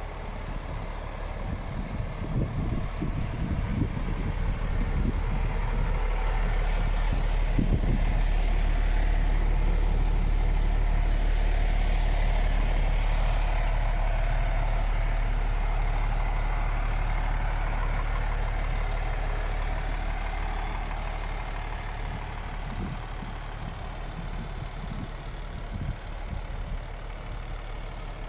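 MAN TGX 18.500 truck's diesel engine idling steadily, its low hum swelling for a while in the middle and easing off later. A few low thumps come in the first eight seconds and again near the end.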